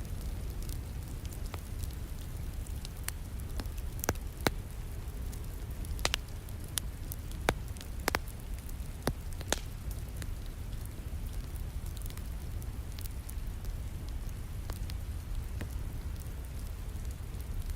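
Wood fire crackling in a fireplace over a steady hiss of falling rain, with a run of sharp pops about four to ten seconds in.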